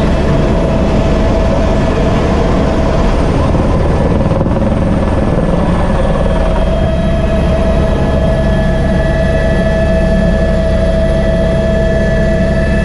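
Helicopter turbine and rotor heard from inside the cabin in flight: a loud, steady low drone with a constant whine over it.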